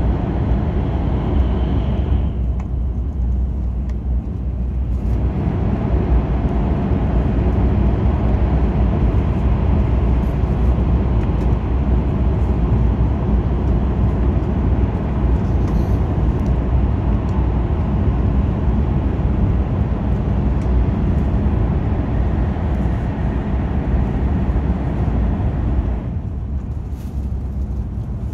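Steady rumble and rush of a Hokkaido Shinkansen bullet train running at speed through a tunnel, heard from inside the passenger car. Near the end the upper hiss falls away and the sound gets slightly quieter as the train comes out into the open.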